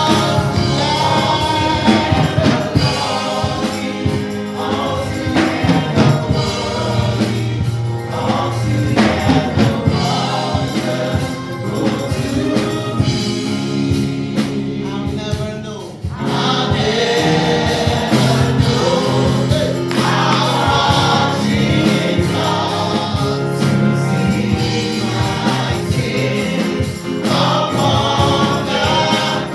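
Gospel choir singing a worship song over instrumental backing. The music dips briefly about halfway through and then carries on.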